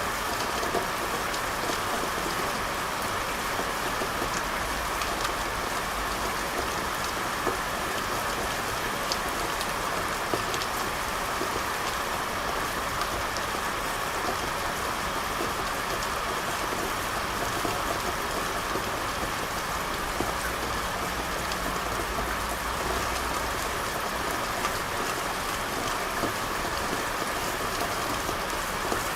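Steady rain falling on hard surfaces, an even hiss with small scattered drop ticks.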